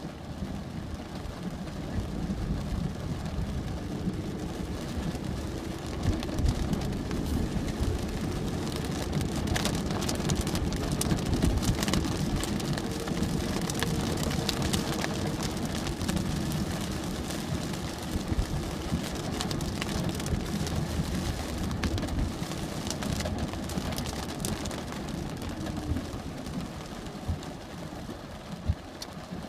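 Rain falling in a dense patter of drops, with a vehicle engine humming underneath that grows louder through the middle and fades near the end.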